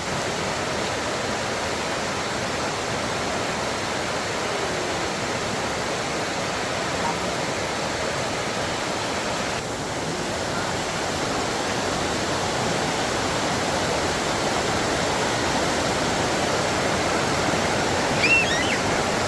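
Heavy rain falling, a steady even rush of noise. A few faint high chirps come near the end.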